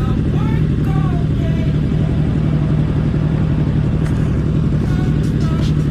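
Motorcycle engine running at a steady pitch while riding, with no revving or change in speed.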